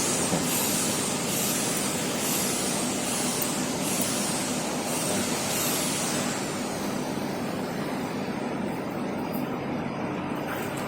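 Steady rushing workshop machine noise, with a high falling whistle repeating about once a second that stops about six seconds in.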